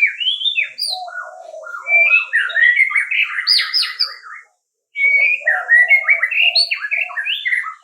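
Songbird singing a long, rapid, varied song of sliding whistled notes in two phrases, broken by a short pause about halfway through.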